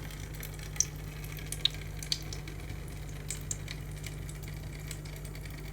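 Faint steady low hum under a light crackling hiss, with a few small sharp ticks scattered through.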